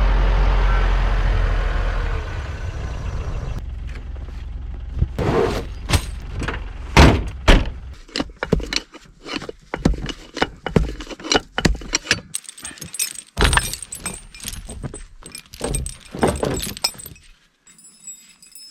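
A vehicle engine rumbling, fading away over the first few seconds, then a long irregular run of sharp clinks and knocks that stops near the end.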